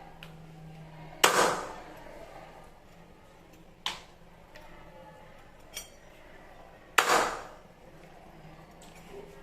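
Strikes of a metal tool: two loud, sharp knocks about six seconds apart, each with a short ringing tail, and a lighter knock between them.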